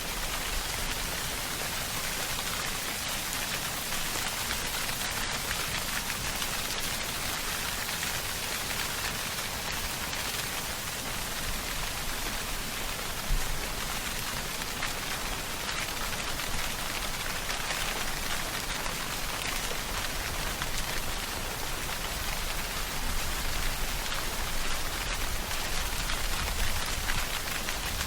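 Steady rainfall: a dense, even hiss of drops, with a low rumble underneath in the second half and one brief louder hit about 13 seconds in.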